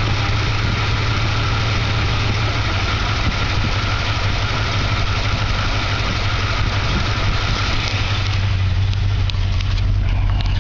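1964½ Ford Mustang's 289 four-barrel V8 with Edelbrock headers idling steadily, freshly cold-started after sitting a year and a half. About eight seconds in, the sound becomes duller, with less hiss and more low rumble.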